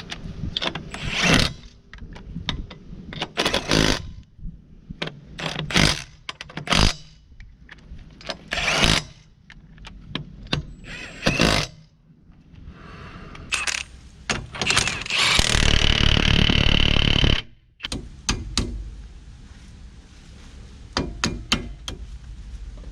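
Metal tools and parts clanking, knocking and scraping during clutch work on a van. About two thirds of the way through, a power tool runs for roughly three to four seconds and cuts off suddenly.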